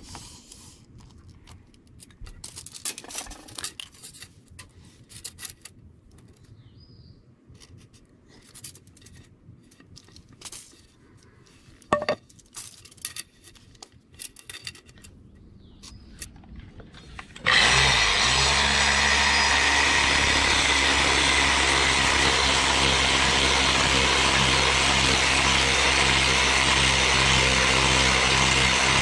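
Scattered handling knocks and clicks, then a power tool starts about two-thirds of the way in and runs at a steady speed, loud and unbroken.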